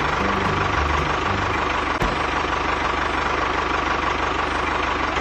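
Tractor engine running steadily with an even low chug.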